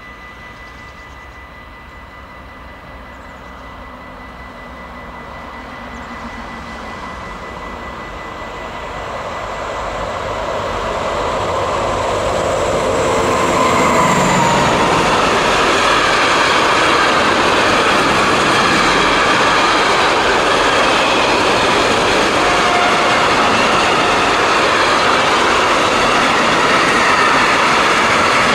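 Vossloh G1206 diesel-hydraulic locomotive hauling an intermodal container train as it approaches and passes. The sound grows steadily louder as the train nears, the locomotive goes by about halfway through, and then the container wagons keep up a loud, steady rolling noise as they run past.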